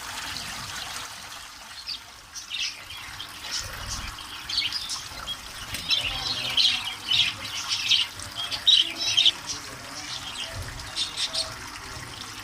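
Small pet birds chirping in quick short bursts over steadily trickling water from a pump-fed bird shower. The chirping is busiest through the middle.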